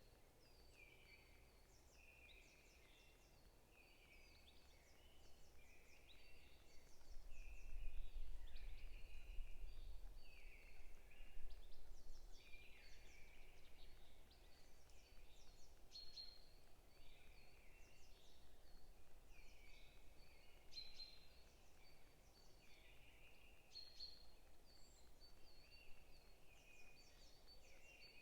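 Several songbirds chirping and calling over and over, faint, with short repeated notes from more than one bird overlapping. A low rumble swells in about a quarter of the way through and fades by the middle.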